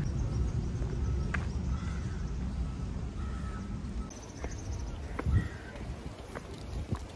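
A few short, crow-like bird caws over a steady low outdoor rumble.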